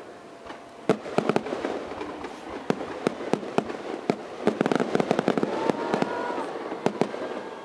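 Aerial fireworks bursting at a display: a rapid, irregular series of sharp bangs, densest about halfway through.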